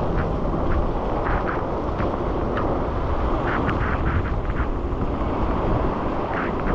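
Steady low rushing wind noise on the camera microphone while cycling in a thunderstorm's rain, with frequent short ticks over it.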